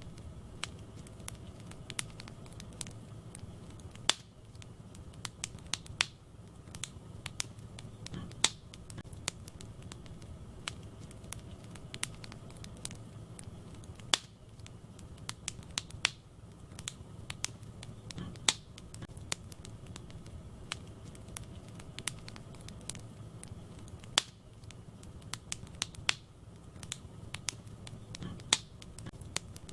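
Wood fire burning in a fireplace: irregular crackles and sharp pops of burning logs, several a second, over a steady low rumble of the flames.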